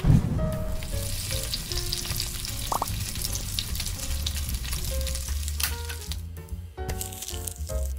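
Sizzling and crackling of chicken drumsticks deep-frying in hot oil, stopping about six seconds in, over background music with a steady bass line.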